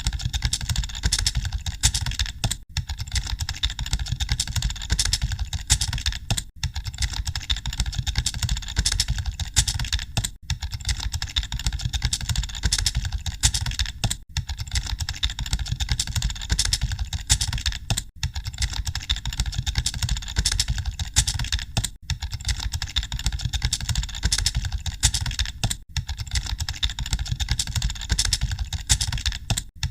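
Computer keyboards being typed on continuously, a dense clatter of keystrokes with a brief dip about every four seconds.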